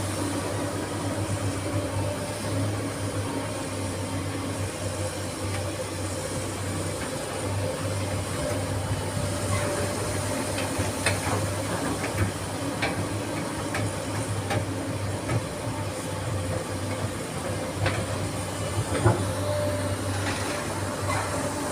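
SANY SY215C excavator's diesel engine running steadily with a low hum. From about halfway through, half a dozen sharp knocks and clanks come over it, the loudest near the end.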